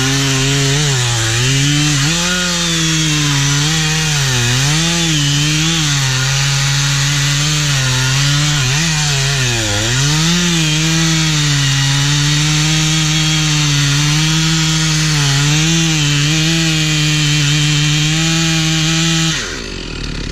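Stihl 046 two-stroke chainsaw cutting into a tree at full throttle, its pitch dipping again and again as the chain bites and bogs in the wood, then holding steady. Near the end the revs fall sharply as the throttle is let off.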